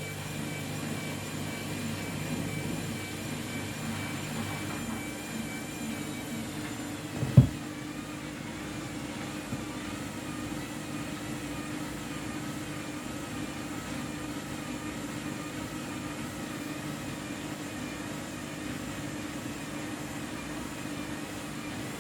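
Washing machine running with a bath mat in the drum: a steady motor hum with a faint wavering whine, and one loud thump about seven seconds in.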